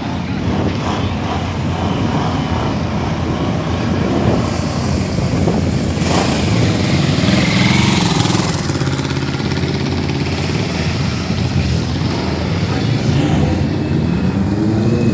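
Motor vehicle engines running and passing close by, with pitch rising and falling. The loudest pass comes about six seconds in and lasts a couple of seconds.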